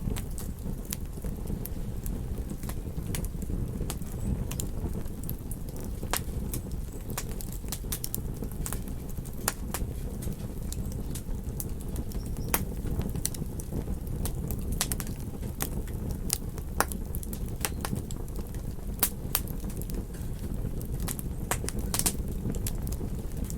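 Campfire crackling, with frequent sharp, irregular pops and snaps of burning wood, over a steady low rumble of ocean surf.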